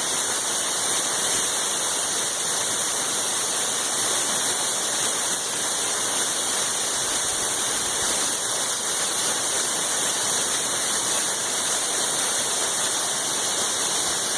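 Small waterfall on a creek: water pouring and splashing in a steady, even rush.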